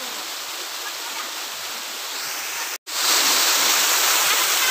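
Steady rushing of a waterfall. It cuts out for an instant just over halfway through, then comes back louder.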